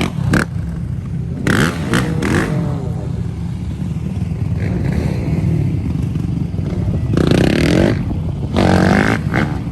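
Several quad and dirt bike engines running together in a steady low drone, with a few short revs rising and falling.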